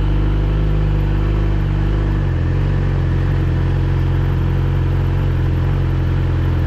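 Yamaha R6 sportbike's inline-four engine running steadily at low revs, its note shifting slightly a little over two seconds in.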